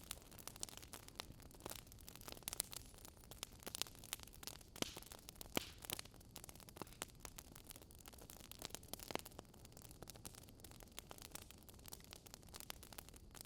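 Wood fire in a fireplace burning, with logs crackling and popping in many small, irregular snaps over a soft hiss.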